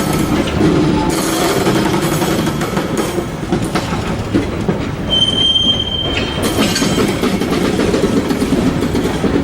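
Train rolling past, its wheels rumbling and clacking over the rails, with a brief high wheel squeal about five seconds in.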